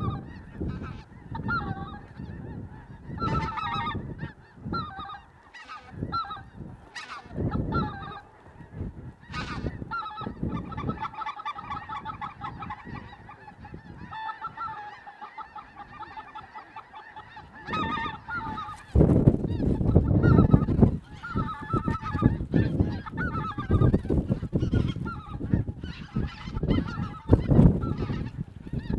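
A large flock of snow geese and white-fronted geese calling overhead, a dense overlapping chorus of high honks and yelps. A louder low rumble rises under the calls about two-thirds of the way in.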